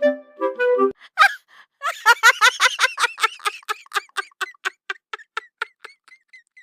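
A person laughing hard in a long run of 'ha-ha' bursts that slow down and fade away, after a brief outburst. A woodwind tune plays in the first second and stops abruptly.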